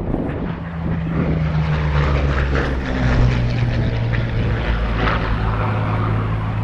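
Hawker Sea Hurricane's Rolls-Royce Merlin III V12 engine droning as the propeller fighter flies past, its pitch dropping about three seconds in as it passes.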